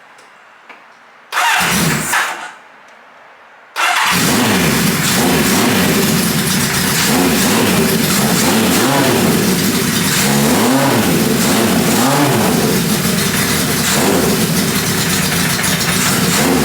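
1980 Kawasaki KZ1000 LTD's air-cooled inline-four starting on freshly rebuilt carburetors: a short loud burst about a second and a half in that dies away, then about four seconds in the engine catches and keeps running, its revs rising and falling.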